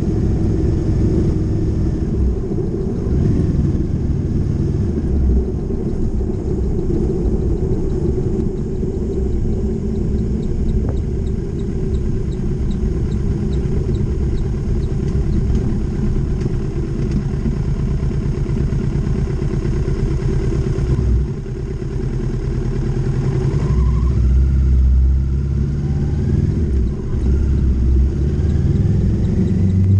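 Motorcycle engine running at road speed under heavy wind rumble. The engine eases off briefly about two-thirds of the way through, then its revs climb again.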